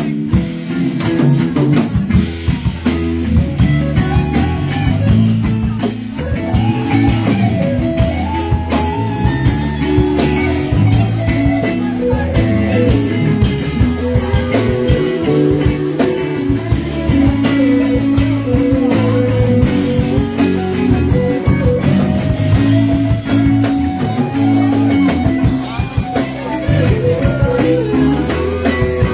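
Live rock band playing an instrumental passage, an electric guitar lead winding over bass and drums.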